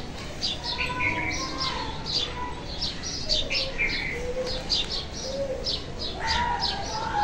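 Small birds chirping outdoors: many short, high chirps, a few each second, with no let-up.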